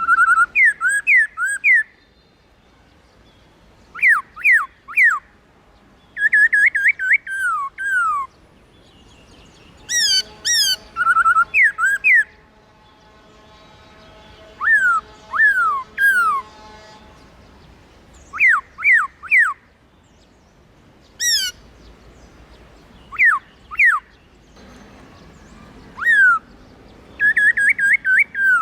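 Black-throated laughingthrush singing: loud phrases of clear whistled notes that slide downward, in bursts every few seconds with short pauses between.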